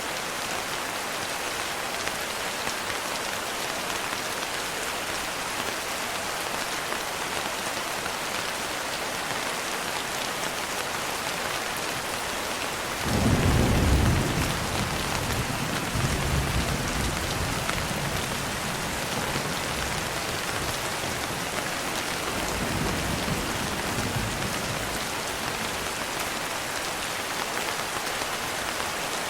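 Steady rain falling, with a roll of thunder about halfway through that starts suddenly, rumbles on for a few seconds, and swells again faintly a few seconds later.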